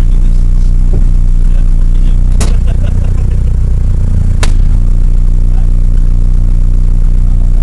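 Car engine idling with a steady low rumble, heard from inside the cabin. A sharp click comes about two and a half seconds in and another about two seconds later.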